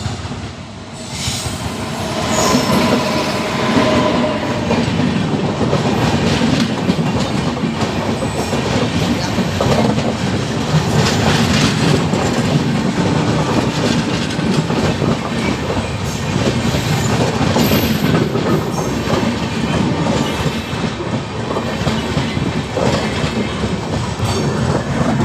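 A train running close by: a loud, steady rumble and clatter of wheels on the track that builds up about two seconds in and carries on.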